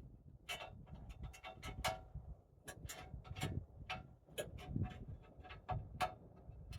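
Irregular clicks and clinks of metal fittings being loosened and handled while the cutting height of a chainsaw mill is adjusted, over a low rumble.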